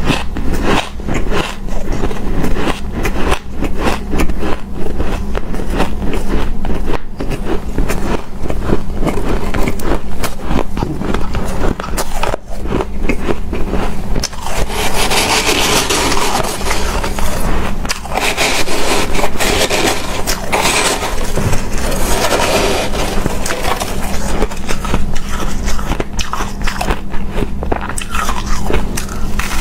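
Close-up crunching and chewing of shaved ice, a dense run of crackling bites, growing denser and hissier for several seconds in the middle, over a steady low hum.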